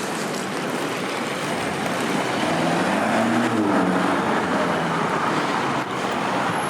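City-street road traffic: a steady roar of passing vehicles, with one engine rising and then falling in pitch as it passes about three seconds in.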